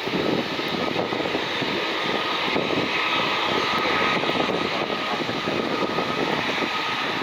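Jet airliner engines running, a steady rushing noise with no distinct whine or beat.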